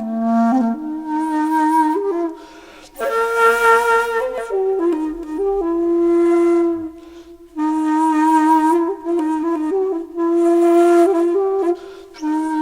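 Background music: a solo flute playing slow, held notes in phrases, with short pauses between them.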